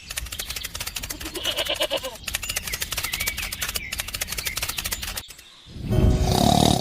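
A fast, steady mechanical clicking rattle with faint chirps over it. It stops about five seconds in, and a loud low rumbling burst follows near the end.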